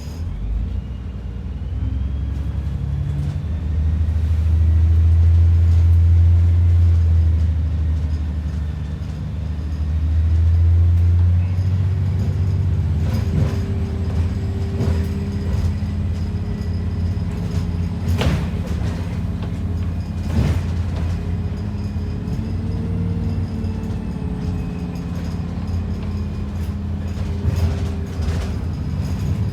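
ADL Enviro 400 double-decker bus heard from inside while driving: a deep diesel engine rumble that swells twice in the first half as it pulls away and accelerates, with a drivetrain whine gliding up and down. A few sharp knocks and rattles come from the body in the second half.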